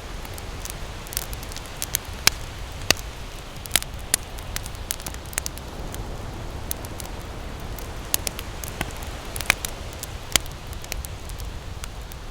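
Wood campfire crackling, with irregular sharp pops and snaps, a few standing out louder, over a steady low rush of ocean surf.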